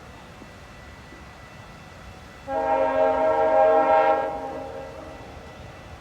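GO Transit commuter train sounding its multi-note chord horn: one loud blast starting about halfway through, held for under two seconds and then fading away, over a low steady background rumble.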